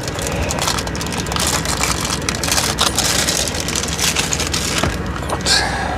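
Irregular crinkling and crackling, as of plastic or paper packaging being handled and pulled open, over a steady low hum.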